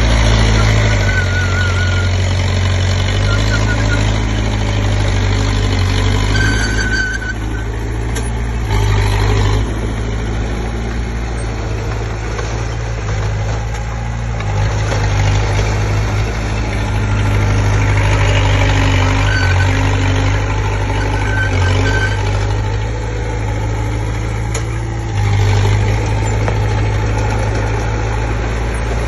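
Komatsu D20P crawler bulldozer's diesel engine running, its note and loudness shifting every few seconds as the load changes while it pushes soil, with a few brief high squeaks.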